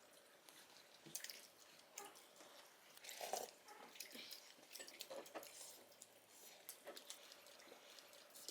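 Very faint eating sounds: scattered small clicks and taps of utensils and chewing, close to near silence.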